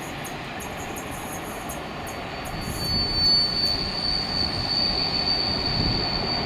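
A train running past on the rails with a steady rumble of wheels. A single high-pitched wheel squeal starts about three seconds in and holds steady as the sound grows louder.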